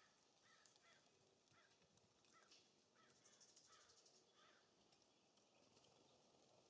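Faint series of about seven short calls from a California Scrub-Jay, each under a second apart, stopping after about four and a half seconds. A quick run of high ticks from a small bird comes in the middle.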